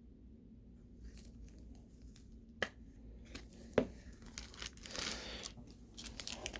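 Crinkly plastic and foil packaging being handled and torn, typical of a trading card pack being opened. The rustling starts about a second in, with two sharp clicks partway through, and the crinkling grows louder near the end.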